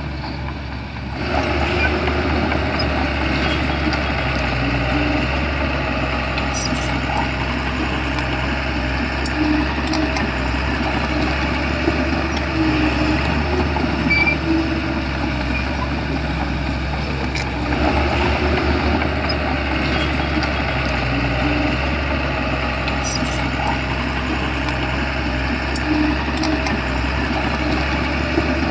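Shantui bulldozer's diesel engine running steadily while working. The sound gets louder about a second in, with a few faint metallic clicks.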